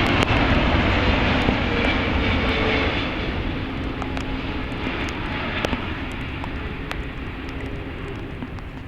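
Jet airliner passing by with its engine noise fading as it moves away. The sound is a steady rush with a few tones that slowly fall in pitch.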